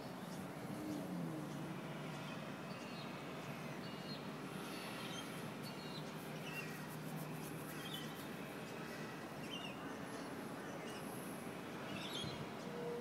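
Scattered short bird chirps and calls, heard over a steady background hum and hiss of outdoor ambience.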